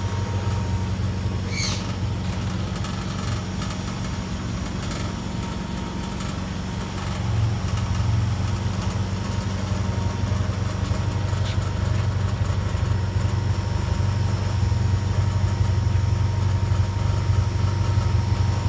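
A classic Mini's A-series four-cylinder engine idling steadily, a little louder in the second half.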